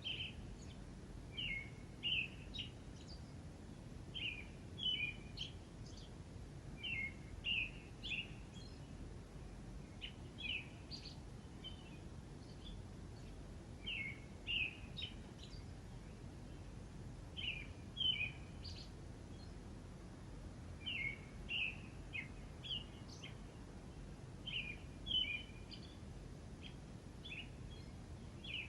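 Birds chirping in short clusters of quick high notes that come again every second or two, over a faint steady background hiss.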